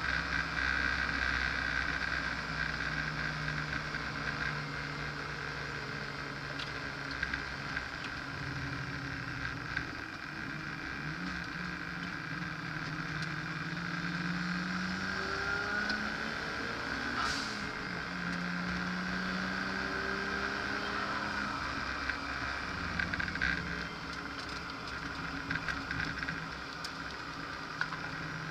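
Car engine heard from inside the cabin on a hot lap, its note climbing and falling again and again as the driver accelerates, shifts and brakes, over steady wind and road noise. A sharp click sounds about two-thirds of the way through.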